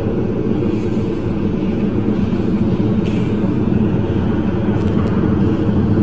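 Glasgow Subway train running with a steady low rumble.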